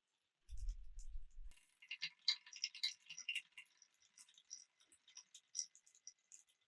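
Marbles rolling through a wooden marble run: a brief low rumble about half a second in, then a quick run of light clicks and rattles as they knock along the track.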